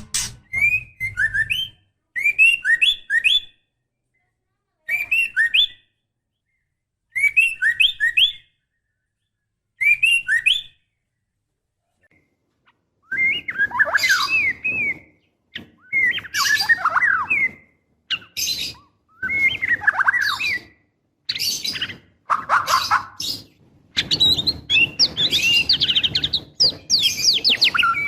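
Female white-rumped shama in breeding condition calling, the kind of call played to stir males into song. Short chattering phrases repeat about every two and a half seconds, then after a pause of a couple of seconds come longer, busier phrases over a hiss of background noise.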